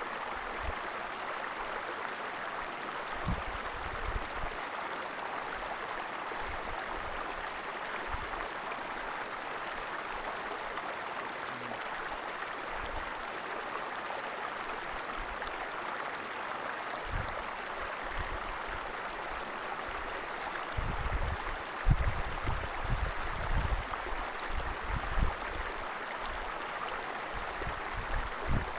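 Waterfall: a steady rush of falling water. Irregular low rumbles break in now and then, most of them in the second half.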